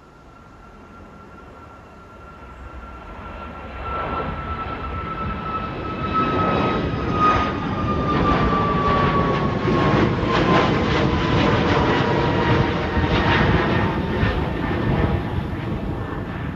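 Airliner engines on departure growing from faint to loud as the aircraft passes. A high whine slides slowly down in pitch over a swelling roar.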